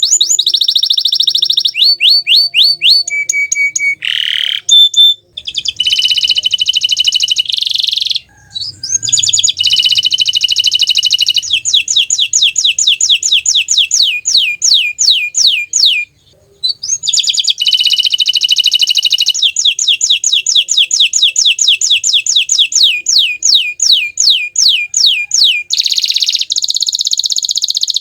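Bottle-green domestic canary singing loudly: fast runs of repeated falling notes, several a second, alternating with buzzy rolled phrases. The song breaks briefly twice.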